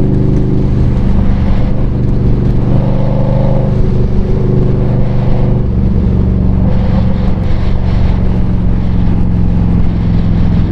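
2020 Indian Scout Bobber Twenty's liquid-cooled V-twin running under way at a steady, nearly even pitch, heard from the rider's position on the moving motorcycle.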